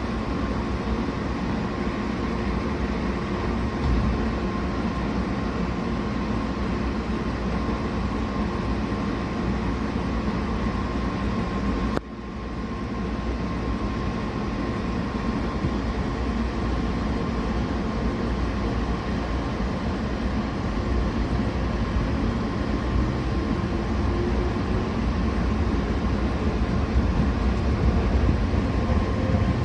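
WEST EXPRESS Ginga's 117-series electric train running: a steady rumble and rail noise with a constant whine. The sound drops sharply about twelve seconds in, then builds again and grows slowly louder.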